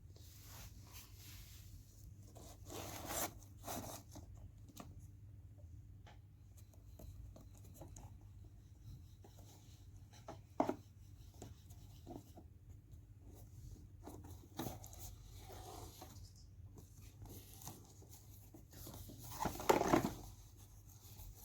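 Close hands-on handling of a toy and its packaging: scattered soft rustles and light clicks of plastic and cardboard, with a sharp click about halfway and a louder rustle near the end.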